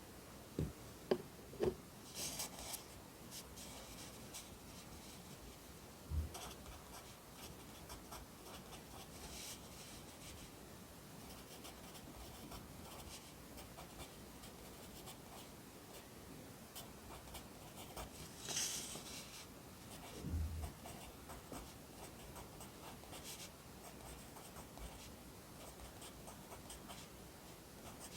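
Pencil writing Korean characters on paper: faint, steady scratching strokes, with a few light taps in the first couple of seconds and two soft thumps on the desk.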